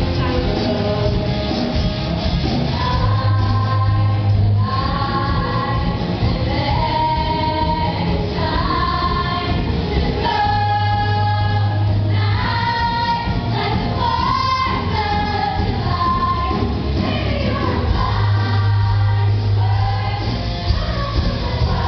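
High-school choir singing together over an instrumental backing, holding long notes with a steady bass line underneath.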